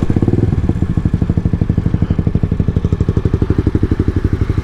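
Yamaha MT-07's parallel-twin engine running steadily at low revs, heard as a fast, even throb of exhaust pulses.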